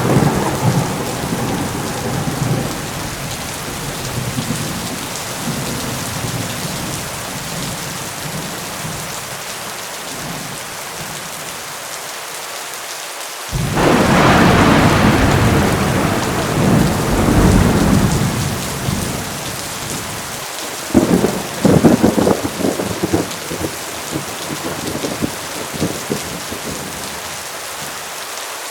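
Steady heavy rain during a thunderstorm. About halfway through, a loud thunderclap breaks in suddenly and rumbles on for several seconds. A little later comes a run of sharp crackling thunder strokes.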